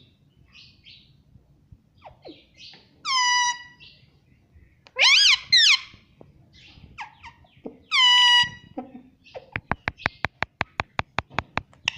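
A parrot making high, voice-like talking calls: one about three seconds in, a pair of quick rising notes about two seconds later, and another after about eight seconds. These are followed near the end by a rapid, even run of clicks, about six a second.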